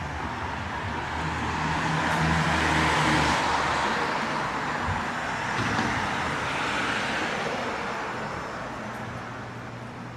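A motor vehicle passing close by on a city street, its engine and tyre noise swelling to a peak about three seconds in and then slowly fading away.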